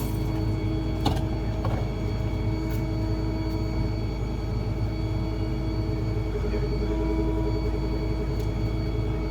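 A small rear-load garbage truck, a Ford F-550 with a New Way Diamondback body, running steadily: a low engine rumble with a steady whine over it. There is a light knock about a second in.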